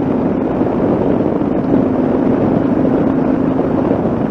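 Yamaha XT660Z Ténéré's single-cylinder four-stroke engine running at a steady cruise, with wind rushing over the microphone.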